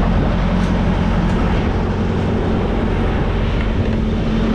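Steady low rumble of idling diesel truck engines at a truck-stop fuel island, with a constant hum under a noisy hiss.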